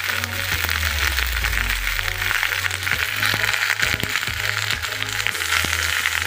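Pok choy with garlic and onion sizzling in a hot wok, a steady frying hiss full of small crackles. Background music with a low bass line plays underneath.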